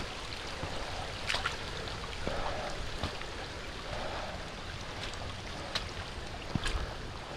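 Steady rushing water noise with a few sharp ticks scattered through it.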